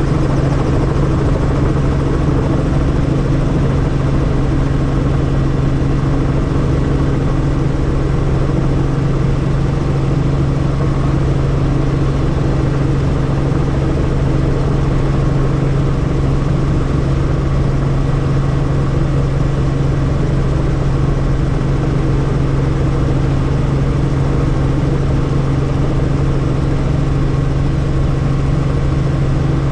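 Helicopter running, a loud steady drone with a strong low hum that holds one pitch throughout.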